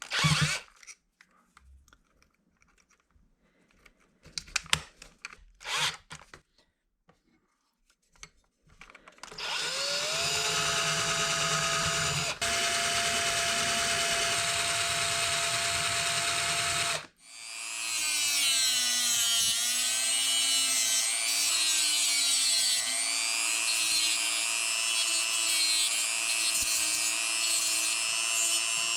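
Small hand-held electric engraver (rotary tool) motor: a few knocks, then it is switched on and whines steadily at speed. It stops briefly and starts again, and in the second run its pitch dips and recovers again and again as the tool takes load.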